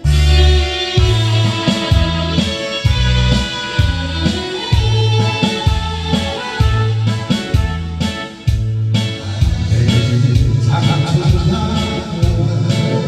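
Karaoke backing track playing the instrumental intro of a Korean trot ballad: a melody line over a steady, evenly repeating bass beat.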